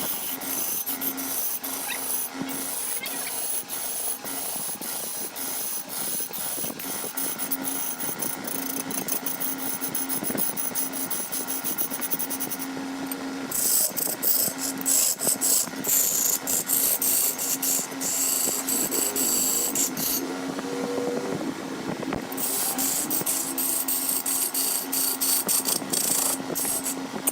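Wood lathe running with a steady hum while a turning tool scrapes and cuts the spinning wood, with many short ticks. The cutting grows louder and hissier from about halfway through, in two long passes.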